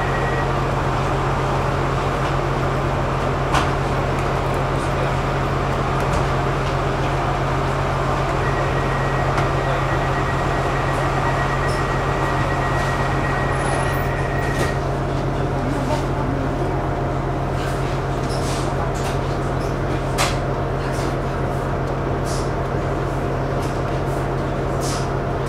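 Steady hum of an electric commuter train's onboard equipment while the train stands at a platform. A thin high tone sounds for about six seconds in the middle, and light clicks and knocks come now and then, more often near the end.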